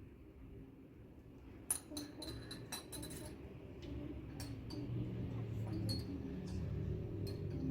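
Irregular light clicks and clinks, starting about two seconds in and coming more often, over a low hum that grows louder.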